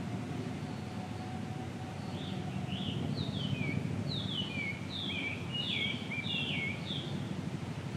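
A bird singing a quick run of short notes, each dropping in pitch, from about two seconds in until near the end, over a steady low background rumble.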